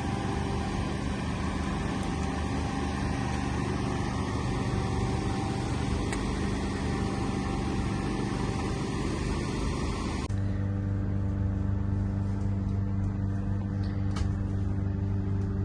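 An engine running steadily. About ten seconds in the sound changes abruptly: the hiss drops away and a low hum becomes stronger.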